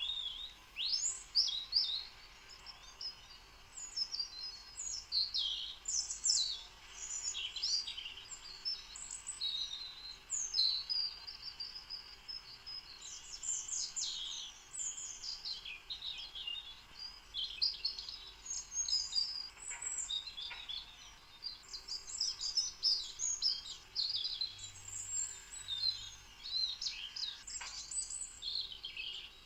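Birds chirping and twittering in a dense chorus of short, high, quick calls that overlap continuously.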